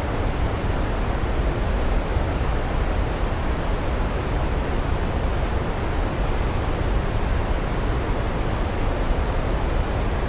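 Waterfall rushing steadily, an even wash of falling water heaviest in the low end.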